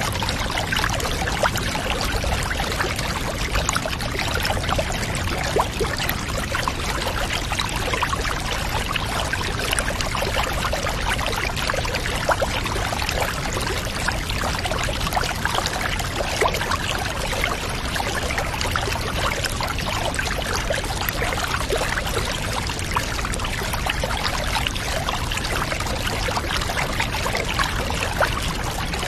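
Running water, trickling and pouring steadily with many small splashes and drips, with no change throughout.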